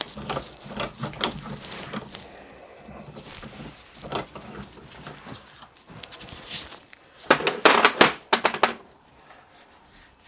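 Hand-turned valve seat cutter scraping metal as it cuts the valve seat of a traction engine water gauge, in uneven rasping strokes. A burst of louder scraping and knocks comes about seven to nine seconds in.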